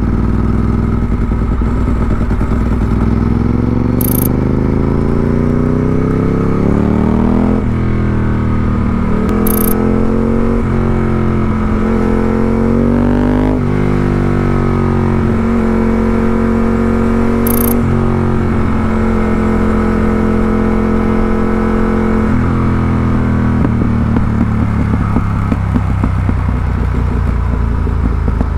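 Ducati 748R's V-twin engine, fitted with a Termignoni exhaust, pulling hard through several upshifts: its pitch climbs and drops at each gear change. It then holds a steady cruise and eases off near the end.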